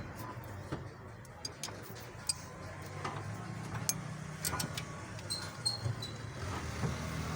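Car engine idling as a steady low hum, with scattered light metallic clicks and clinks over it.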